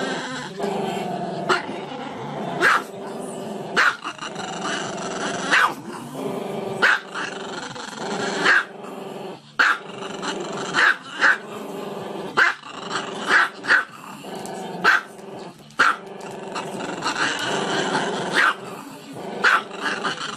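A dog growling continuously, the growl broken by sharp barks about once a second.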